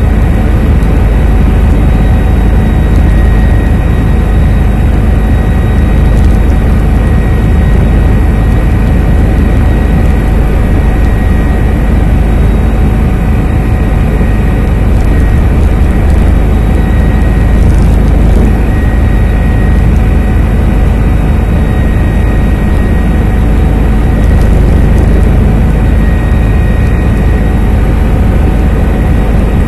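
Helicopter in flight heard from inside the cabin: a loud, steady drone of the rotor and turbine, with a fast low thudding and several steady whining tones held over it.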